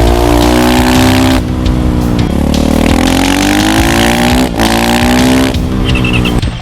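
Dirt bike engine sound effect, revving hard: the pitch climbs, then breaks off and climbs again several times, about every one to two seconds, like shifts up through the gears.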